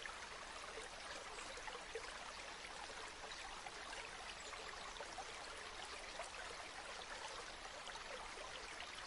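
A river or stream flowing steadily, a soft, even babble of running water with many small splashes and trickles.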